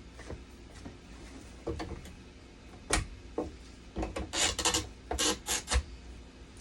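Hands working on a dialysis machine's casing and parts: a sharp click about three seconds in, then several short bursts of rubbing and scraping over the next two seconds.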